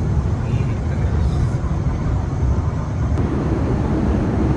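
Steady low rumbling noise with no clear tone or rhythm, growing a little fuller after about three seconds.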